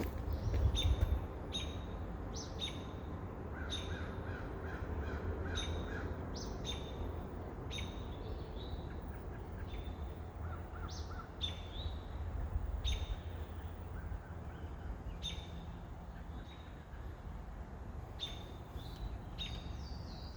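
Wild birds chirping and calling, with many short high chirps scattered irregularly and a brief run of repeated notes about four seconds in, over a low rumble that fades after about thirteen seconds.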